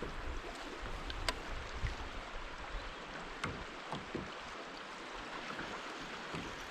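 Creek water running around a kayak as a steady wash, with a few light clicks.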